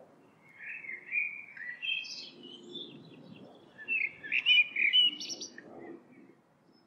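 A songbird singing: two runs of quick, high chirping notes, the second, starting about four seconds in, louder than the first.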